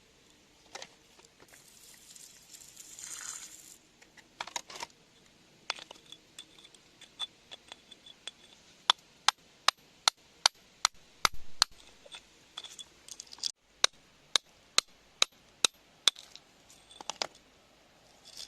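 Hand tools working rock: a brief scrape near the start, then sharp clinking taps, settling in the middle into an even run of about two to three strikes a second before turning irregular again.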